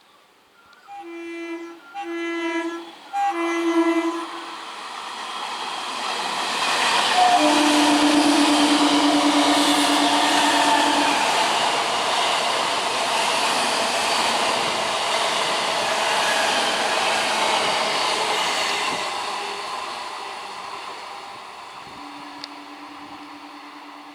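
Indian Railways train sounding three short horn blasts, then a longer, lower blast as it passes at speed, with a loud rush of wheels on rail that builds, holds and fades away. Another horn blast sounds near the end.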